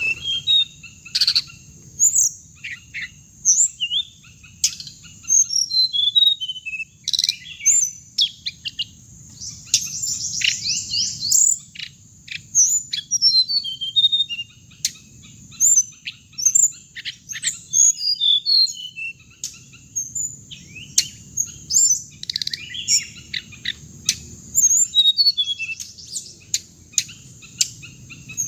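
Song and calls of the bird known in Vietnam as hồng hạnh: a busy run of sharp, high chirps and short sliding notes, broken by quick trills. It is a recording of the kind played through a loudspeaker to lure the birds into traps.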